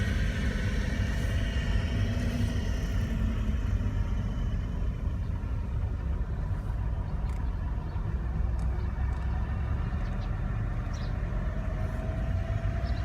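A car driving, a steady low rumble of engine and road noise with no change in pace.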